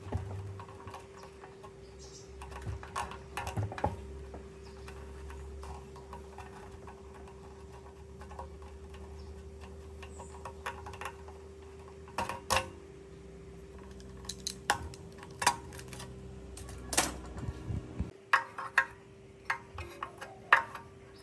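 Small metal parts and tools clicking and knocking as they are handled, in irregular taps that come thicker near the end. A steady hum lies underneath, and a low rumble cuts off suddenly about three seconds before the end.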